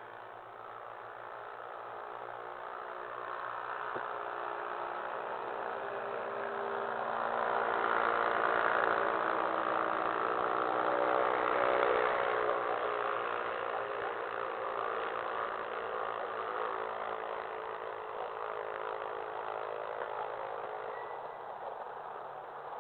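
A motor engine running steadily, swelling louder through the first half and easing off again afterwards.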